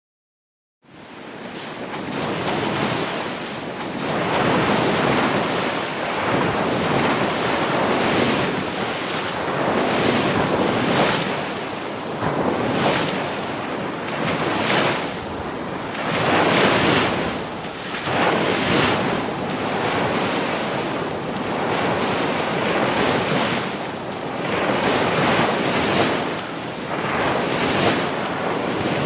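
Ocean surf: waves breaking and washing in a steady hiss that swells and eases every few seconds. The sound starts abruptly about a second in, after a brief dead silence.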